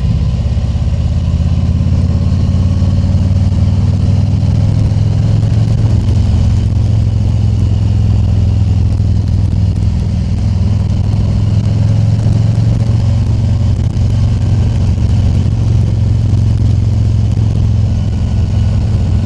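Harley-Davidson Tri Glide Ultra's Milwaukee-Eight V-twin running steadily while riding, with a steady rush of wind over it.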